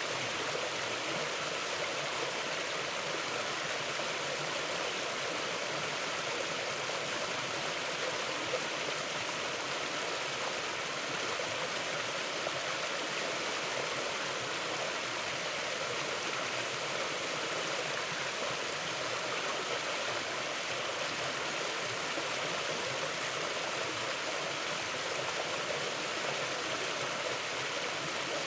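Mountain river flowing steadily over rocks: a constant rushing of water.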